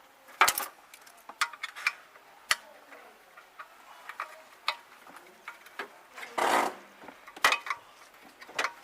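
Irregular metal clicks and knocks, with a short scrape about six and a half seconds in, from hands loosening and lifting off the air filter housing on top of a Maruti Suzuki 800's carburettor.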